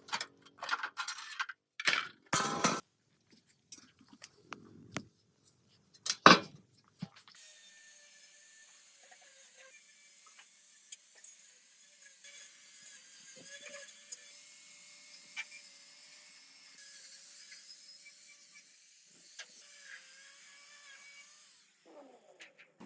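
Workshop tool work: a run of sharp knocks and scrapes, the loudest about six seconds in, then a steady high hiss for about fourteen seconds that stops abruptly.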